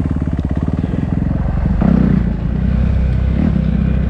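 Dirt bike engine running at low revs with an even, rapid pulse as the bike rolls slowly over a rough dirt track. About two seconds in the throttle opens and the engine note rises, then holds steady a little faster.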